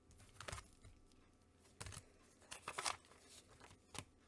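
Faint handling noises in a small room: a few soft rustles and clicks, the loudest about three seconds in, over low room tone.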